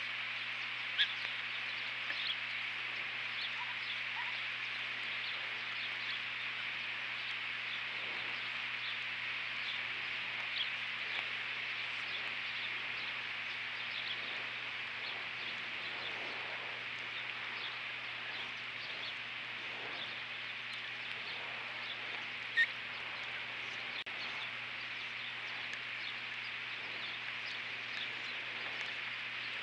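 Faint, short bird chirps scattered through a steady hiss and a low, even hum, with one sharp click a little past twenty-two seconds in.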